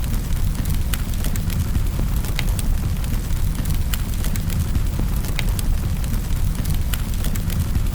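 A fire burning in a fireplace, crackling with many irregular sharp pops over a steady low rumble.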